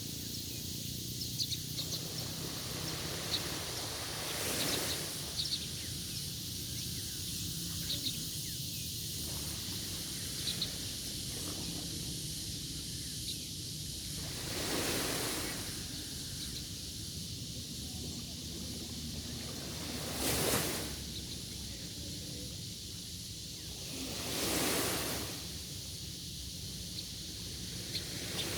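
Sea waves washing onto a shore, one swell of surf every few seconds over a steady hiss of water, with faint short high chirps in between.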